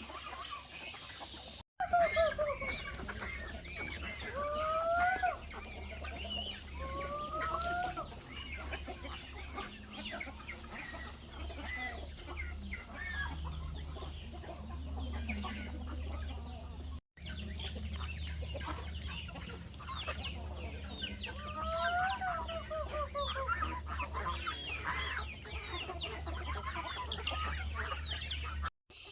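Chickens clucking and calling, with several short rising calls, over a steady high-pitched tone and many small ticks.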